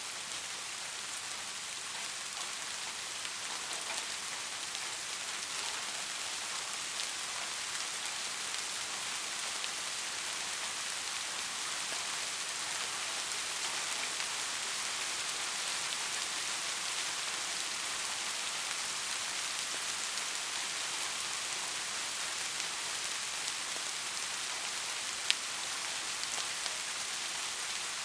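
Steady rain falling, a soft even hiss with fine pattering drops and one sharper drop-click near the end.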